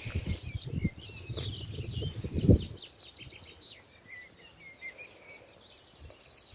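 Several wild birds chirping and twittering in quick short calls. Low rumbling and buffeting noise fills the first two and a half seconds, then fades and leaves the birdsong alone.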